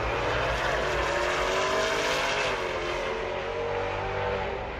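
Drag race cars making a full-throttle pass down the strip, engines running hard with a loud rush of noise and a pitch that rises and dips.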